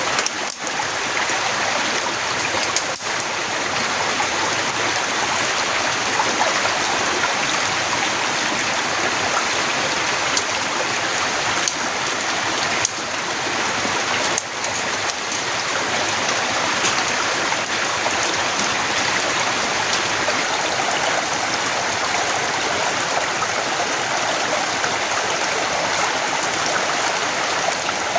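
Torrential rain pouring steadily, a dense, even hiss with a few sharper drop hits.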